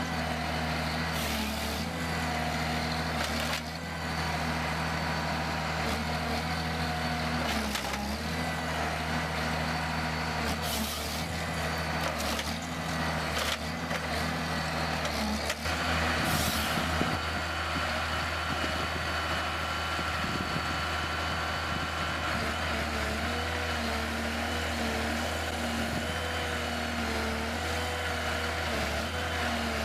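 Heavy machine engine running steadily, its pitch stepping up and down a few times, with several short bursts of hiss.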